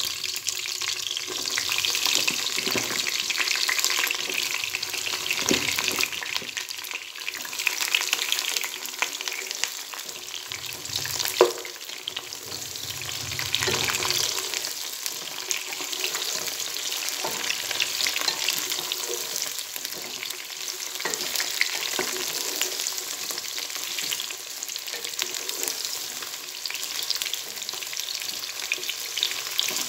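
Eggplant slices frying in hot oil in a nonstick pot: a steady sizzle. Wooden spatula knocks and scrapes as the slices are stirred, with one sharp knock about a third of the way in.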